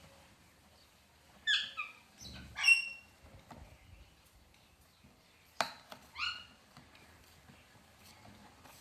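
Parrot squawks: short, harsh calls in small clusters about a second and a half in, near three seconds, and again around six seconds, with a sharp knock just before the last one.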